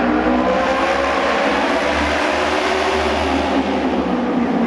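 Several auto race motorcycles running at speed around the track, their engines heard together with pitches that shift slowly up and down.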